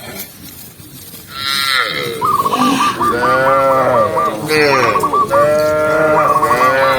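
Several cows mooing, their long calls overlapping one another, starting about a second and a half in.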